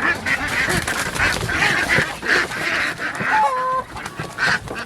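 A flock of domestic ducks quacking loudly, many calls overlapping, with one longer held call a little after three seconds in. Loud quacking is the call of the ducks (females); drakes do not quack.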